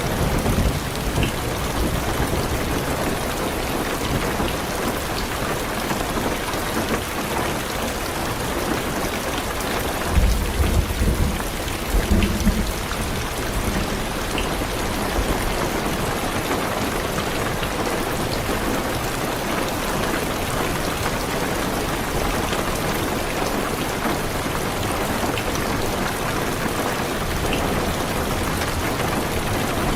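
Heavy rain falling steadily on a car's roof and windows. A low rumble of thunder comes about ten seconds in and lasts a few seconds.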